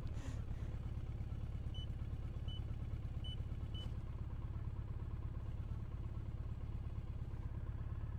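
Motorcycle engine idling steadily, with four short electronic keypad beeps a little under a second apart as a four-digit gate code is entered.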